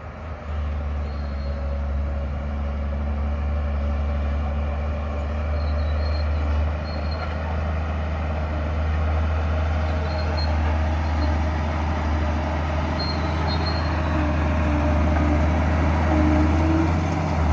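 Heavy diesel engine of earthmoving machinery running steadily with a deep, even hum, gradually growing louder.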